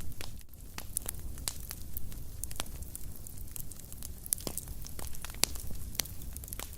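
Wood fire in a fireplace crackling, with irregular sharp pops and snaps over a low steady rumble of the flames.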